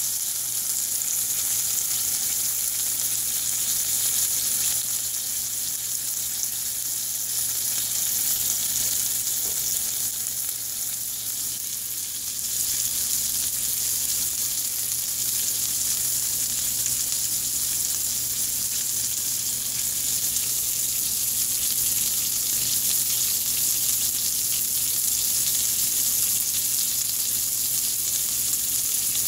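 Bacon-wrapped grilled cheese sandwich frying in bacon grease in a skillet: a steady sizzle, briefly a little softer about ten seconds in.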